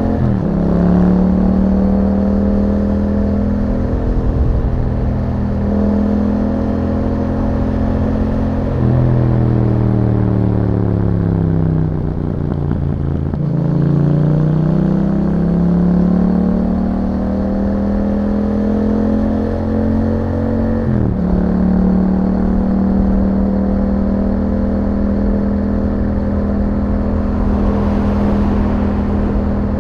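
2021 Yamaha MT-07's parallel-twin engine through an Akrapovic exhaust, under way. The engine note holds steady, falls away as the bike slows about a third of the way in, and climbs again as it accelerates. The pitch steps suddenly about two-thirds of the way in, as at a gear change.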